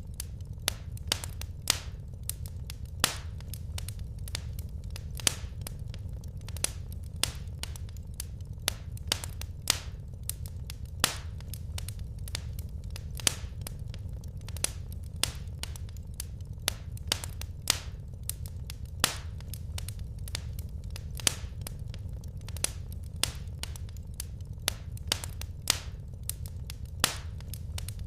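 Wood fire crackling in a fireplace: irregular sharp pops and snaps, a few a second, some much louder than others, over a steady low rumble.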